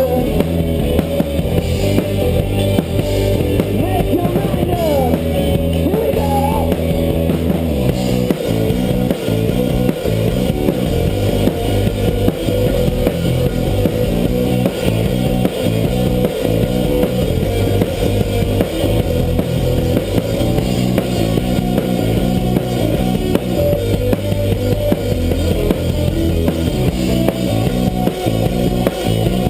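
Rock band playing an instrumental passage, with a drum kit keeping a steady beat under bass and electric guitar.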